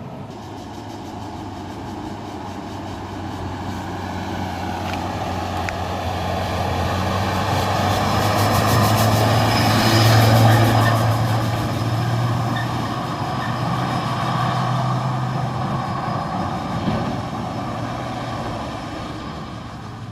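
Heavily loaded dump truck's diesel engine drawing near with a steady hum, loudest about halfway through, then slowly fading as the truck drives past.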